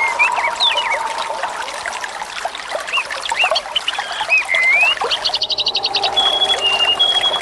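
Running water with many birds chirping over it: short rising and falling calls and held whistled notes, with a quick rattling trill about five and a half seconds in.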